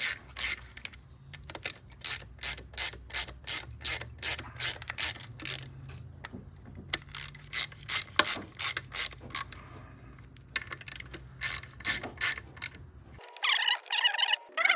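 Hand ratchet clicking in quick runs as the bolts of a golf cart engine's oil filter plate are tightened a little at a time. Near the end it is cut off abruptly by a different, brighter sound with wavering tones.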